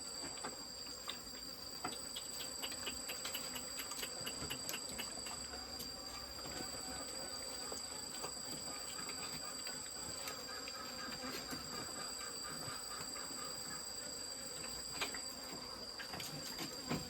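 Steady high-pitched insect chorus, two constant shrill tones holding without a break, with faint scattered clicks and rustles beneath.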